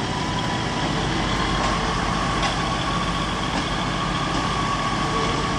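Class 150 diesel multiple unit's engine running as the train moves slowly out of the sidings: a steady rumble with a whine that rises slightly about a second and a half in.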